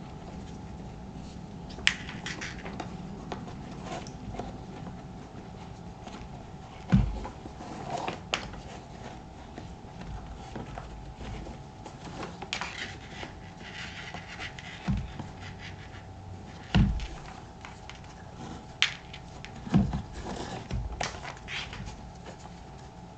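A leather work boot being handled and laced up: scattered light rubbing and clicking of laces and leather, broken by several short dull thumps.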